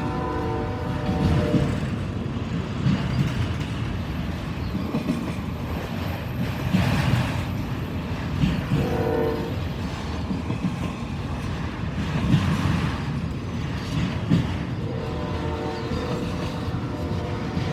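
Freight cars of a long auto rack train rolling past, a steady low rumble with wheel clicks and knocks over the rail joints. A locomotive horn sounds at the start, again briefly in the middle, and in a longer blast near the end.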